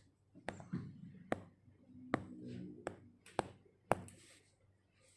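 About six light, sharp clicks or taps spaced roughly half a second to a second apart, with a faint low hum between them.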